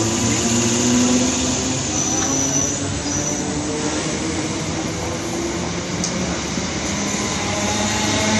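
Electric multiple-unit commuter train running past along the platform: a steady rumble of wheels on rails with a low humming tone from the train.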